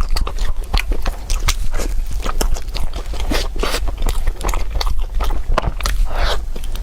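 A person chewing and biting food, with many irregular crisp clicks and crunches, over a steady low hum.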